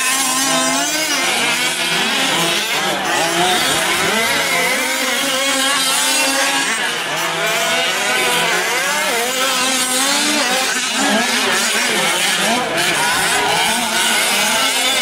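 Several 1/5-scale gas RC trucks' small two-stroke engines buzzing together, their pitches rising and falling as the throttles open and close around the track.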